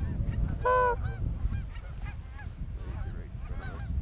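A flock of geese honking, many short calls overlapping, with one loud drawn-out honk about three quarters of a second in.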